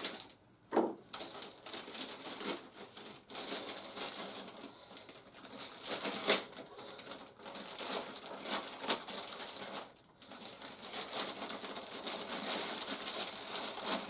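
Plastic toy parts and their packaging being handled and unpacked: rustling and crinkling of plastic wrap and cardboard, with many small clicks and taps and a few louder knocks.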